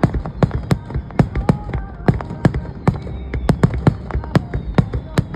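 Aerial fireworks bursting in a rapid barrage, an irregular run of sharp bangs several a second.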